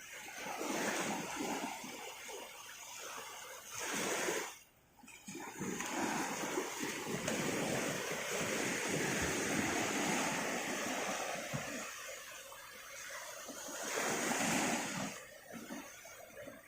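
Shallow sea water splashing and washing in a steady, uneven rush, with a brief lull about four and a half seconds in.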